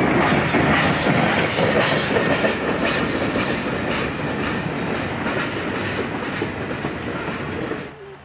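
Freight cars rolling past close by: a steady clatter of steel wheels over the rails, studded with sharp clicks, that cuts off suddenly near the end.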